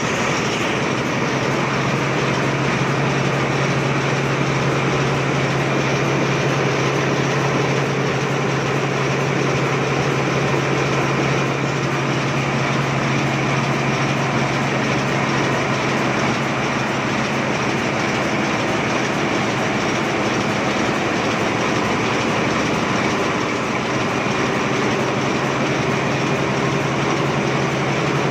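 An Otsuka machine running steadily and loudly, with a constant low hum under dense mechanical noise.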